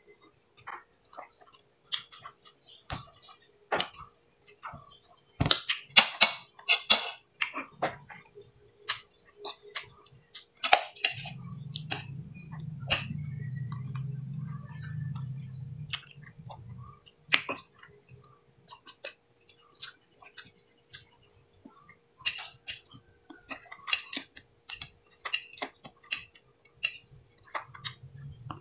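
Wet mouth sounds of sucking and chewing the sweet pulp off fresh cacao seeds: smacking, slurping and sharp clicks, in clusters. A low steady hum runs for several seconds near the middle.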